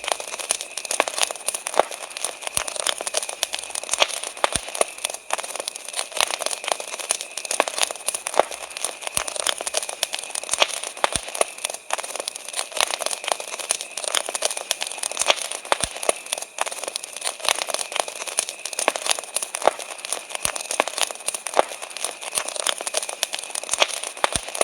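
Wood campfire crackling, with frequent sharp pops and snaps, over crickets singing steadily.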